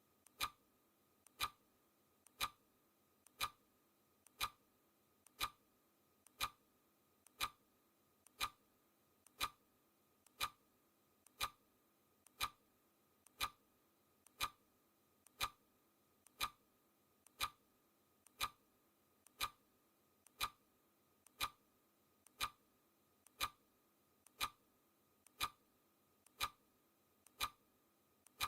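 Clock ticking, one sharp tick a second, each with a faint click just before it: a countdown timer's ticking sound.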